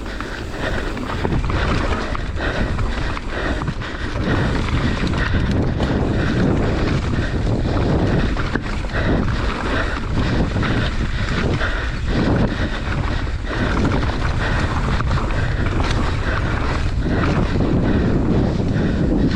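Wind buffeting the mountain bike rider's camera microphone, mixed with tyre noise and frequent knocks and rattles of the bike over a rough trail during a descent.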